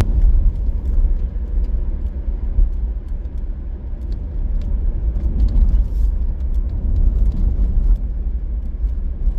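Steady low rumble of a vehicle driving along a road, with scattered faint ticks.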